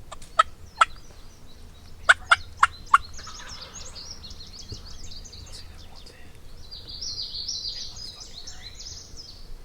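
Sharp turkey clucks and cutts: two, then a quick run of four, the loudest sounds here. A long run of high, quick chattering notes follows and builds near the end.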